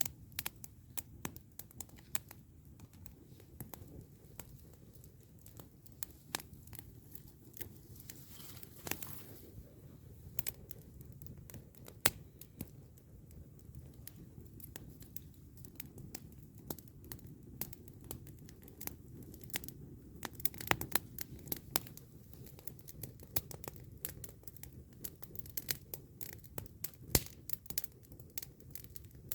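Wood campfire burning: dense, irregular crackles and sharp pops over a steady low rumble, with a brief hiss about nine seconds in.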